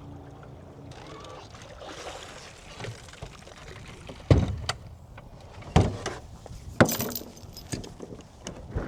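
Several hard knocks and thumps inside a small boat, the loudest about four seconds in, then others at roughly one-second intervals, with lighter clunks between, as a dog clambers about in the boat. A low steady hum stops about a second in.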